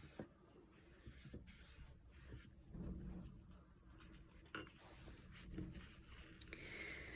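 Faint rubbing of a watercolour brush laying a wash over paper, with a few small clicks.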